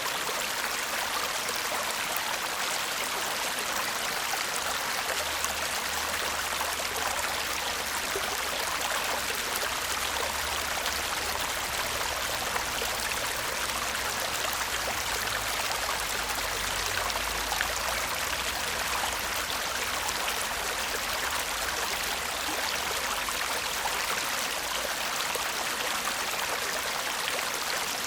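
Shallow stream babbling and trickling over stones, a steady even murmur of running water.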